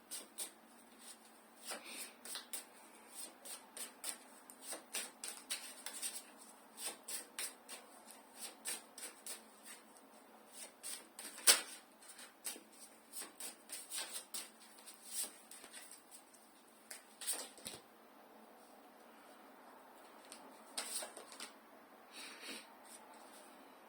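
A tarot deck being shuffled by hand: a long run of quick card flicks and taps, with one sharper snap about halfway through.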